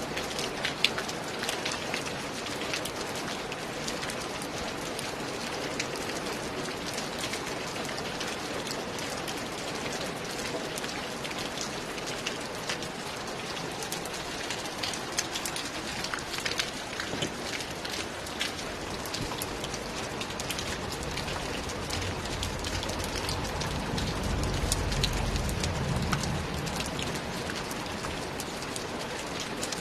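Steady rain falling, with many distinct drop hits. In the second half a low rumble swells up and fades away again.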